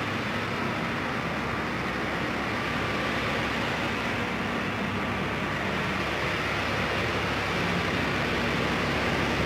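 Heavy truck traffic on a highway: a steady rush of engine and tyre noise with a low engine hum underneath.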